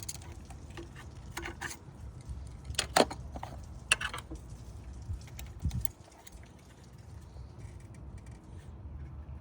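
Metal clicks and clinks of hose clamp pliers working a hose clamp onto a radiator hose, with two sharper clacks about three and four seconds in.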